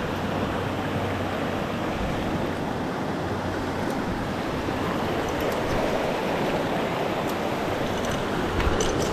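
Mountain stream water rushing steadily, an even wash of noise, with a few faint knocks near the end.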